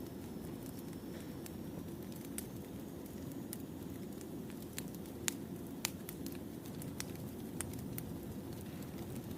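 Wood fire crackling: a steady low rumble of burning logs with scattered sharp pops and snaps, two louder pops a little past the middle.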